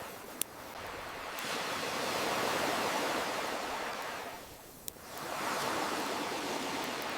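Ocean waves washing in and drawing back in slow swells, with a single sharp crackle from a wood campfire near the start and another about five seconds in.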